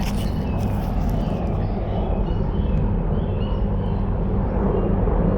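Three Boeing helicopters flying by: a steady low engine and rotor drone, growing slightly louder. Birds chirp briefly over it.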